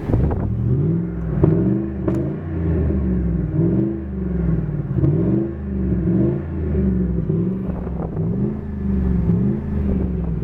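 1998 Ford F150's 4.6-litre V8 engine being revved repeatedly, its pitch rising and falling again about every second and a half.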